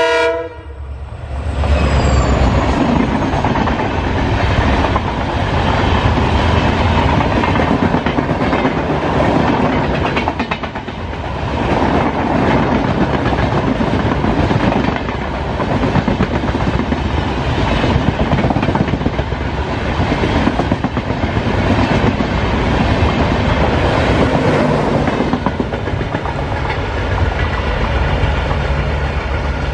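Express train passing at speed behind a diesel locomotive: a loud, steady rumble, with the coaches' wheels clattering rapidly over the rail joints. It dips briefly about ten seconds in and eases slightly near the end as the train draws away.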